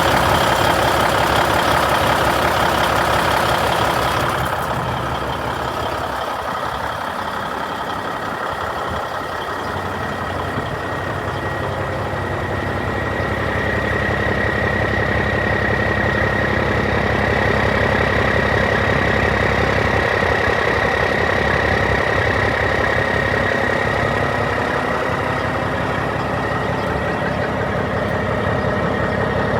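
Diesel engine of a 1996 Freightliner FLD120 semi truck running steadily. It is louder for the first four seconds, then settles, and a steady high whine sits over it through the middle.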